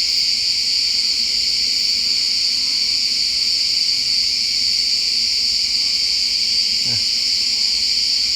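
Insects calling in a loud, steady, high-pitched chorus that drones on without a break.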